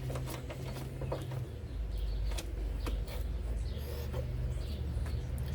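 Scattered small clicks and knocks of a bolt and plastic washer-reservoir parts being handled and fitted under a pickup's hood, over a steady low hum.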